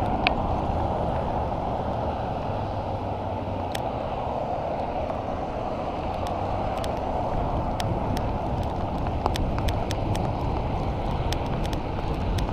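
Steady wind rush and road noise from a bicycle being ridden in the rain, with scattered sharp ticks, more of them in the second half.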